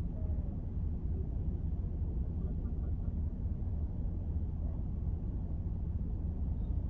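Steady low rumble of a car driving, road and engine noise with no sudden events.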